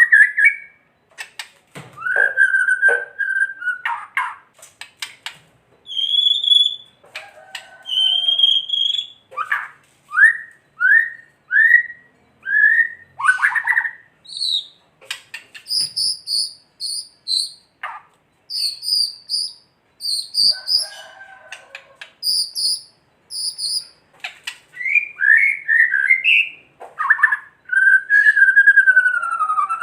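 White-rumped shama (murai batu) singing a varied song of clear whistles, short rising slurred notes and quick repeated high notes, broken by rapid rattling clicks.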